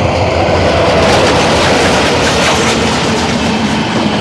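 A passenger train led by a diesel locomotive passes close by at speed. The locomotive's engine is heard, followed by the coaches' wheels clattering and rattling on the track.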